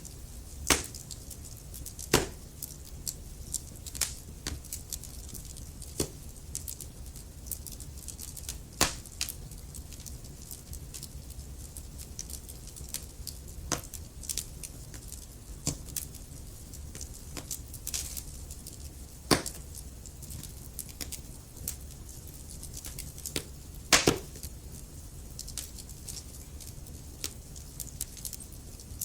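Wood fire burning in a fireplace: a steady low rumble with frequent irregular crackles and sharp pops from the burning logs, the loudest pops about 1, 2, 19 and 24 seconds in.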